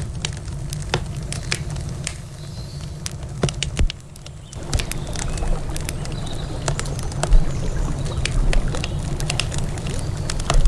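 Wood campfire crackling, with frequent irregular sharp pops and snaps over a steady low rumble. The sound dips briefly about four seconds in.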